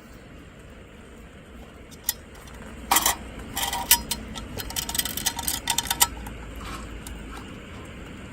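Metal camp cookware and utensils clinking and clattering in a quick run of sharp knocks, some of them ringing briefly, about three to six seconds in, over a low steady outdoor rumble.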